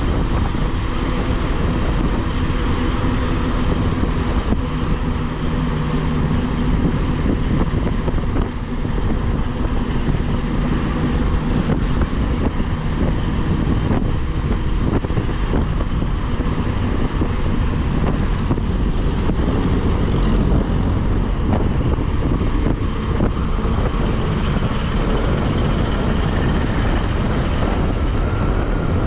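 Bajaj Pulsar single-cylinder motorcycle engine running steadily at cruising speed, with heavy wind rush on the microphone.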